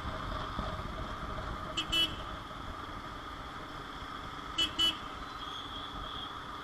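Motorcycle running steadily at road speed with wind noise, and a vehicle horn giving one short toot about two seconds in and two quick toots a little past halfway.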